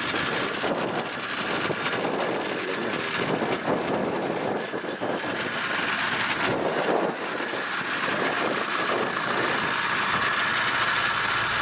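Engine of a heavy farm machine running steadily, with a high steady whine that grows stronger near the end.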